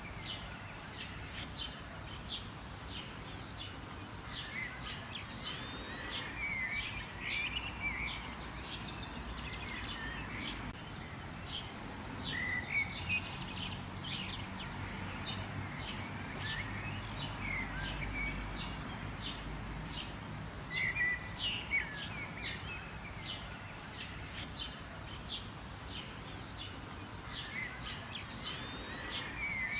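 Several wild birds chirping and calling in a busy chorus of short, quick notes and brief whistled slurs, over a steady low background rumble.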